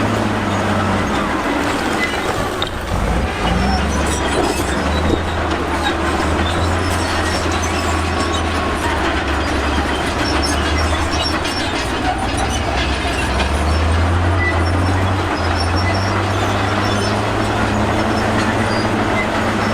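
Komatsu crawler bulldozer working: its diesel engine running under load, the note shifting a few times, with the steel tracks clanking and squealing over a steady rumble as it moves rock.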